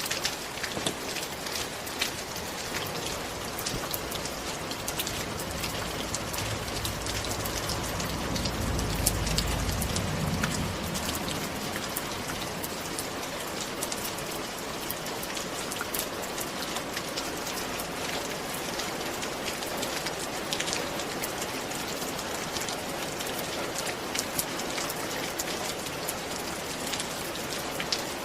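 Steady rain falling, with individual drops ticking sharply on a surface. A low rumble swells and fades about a third of the way through.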